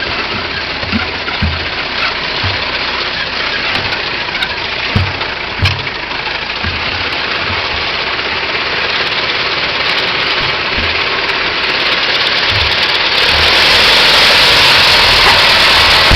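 1909 Ford Model T's four-cylinder flathead engine running, with irregular low thumps in the first half. The sound grows steadily louder from about halfway and is loudest in the last few seconds.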